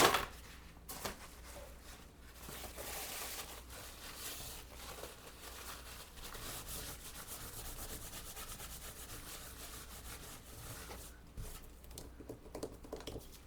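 Rubbing and wiping as wet light paste is cleaned off a craft tool: a faint, steady scratchy rubbing, with a couple of sharp clicks near the start.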